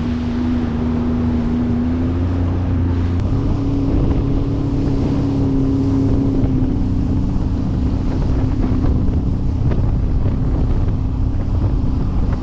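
Jet ski engine running hard at a steady pitch, with wind buffeting the microphone.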